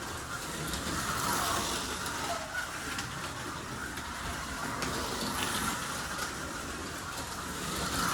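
Scalextric slot cars running round the track: a steady whine from their small electric motors, with a few light clicks.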